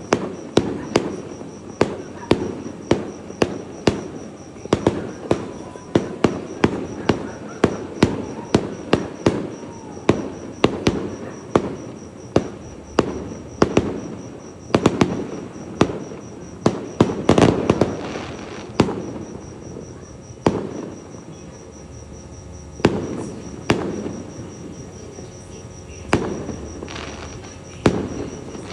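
Fireworks going off, sharp bangs coming about twice a second for the first half, then fewer and further apart. A steady, pulsing high insect chirping runs underneath.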